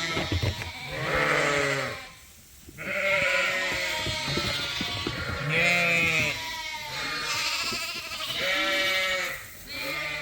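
Sheep bleating over and over: a string of calls, each about a second long, with a short lull about two seconds in.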